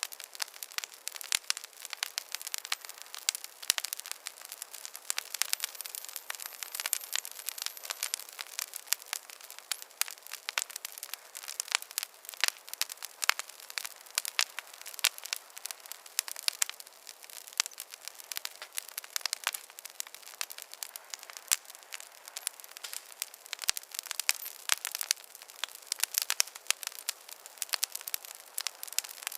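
Wood fire in a fireplace crackling: a dense, irregular run of sharp pops and snaps over a light hiss, with no low rumble.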